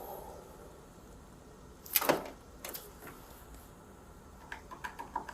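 A single knock about two seconds in, with a few light clicks near the end.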